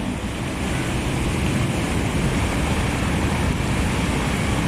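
Wind buffeting the microphone aboard a boat under way, over a steady low rumble of the boat's engine and water.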